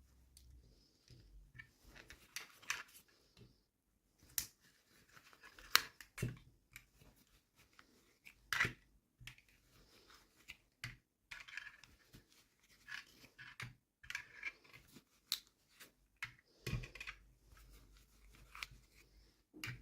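Toy packaging being opened by hand: plastic and paper crinkling and tearing, with many sharp irregular clicks.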